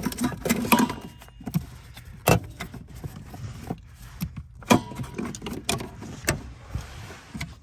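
Small metal parts being handled: irregular clicks and clinks, with a few sharper knocks spread through.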